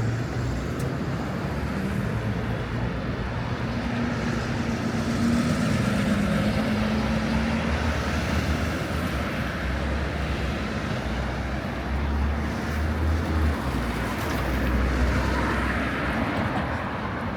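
City street traffic: the steady noise of passing cars and their engines, with a low engine hum swelling about four seconds in and again past the middle.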